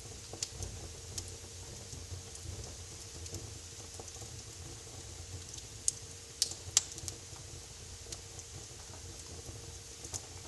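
Wood fire in a fireplace crackling, with scattered sharp pops over a low steady rumble of the flames; a few louder pops come close together a little past the middle.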